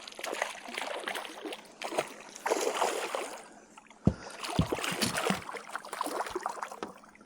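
Irregular surges of rushing water and wind noise around a small fishing boat, with a few dull knocks about four to five seconds in.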